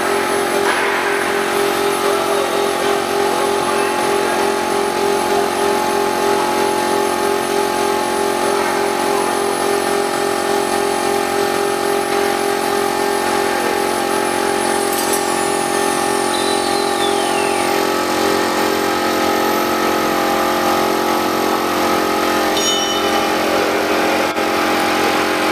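Large ATC CNC router running as it engraves: a steady machine whine and hum from the spindle and axis drives, with one evenly pulsing tone. About fifteen seconds in, a faint high whine falls in pitch over a couple of seconds.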